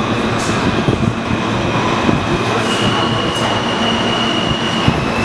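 R160 subway train moving through the station: the rumble and clatter of wheels on rail, with a steady high whine that grows stronger about two and a half seconds in.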